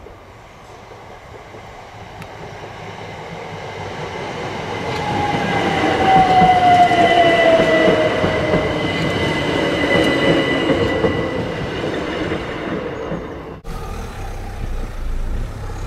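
Electric passenger train approaching and passing over a level crossing, building steadily to its loudest about six to ten seconds in, with a whine that falls in pitch as it goes by. Near the end the sound cuts off suddenly and gives way to quieter outdoor background.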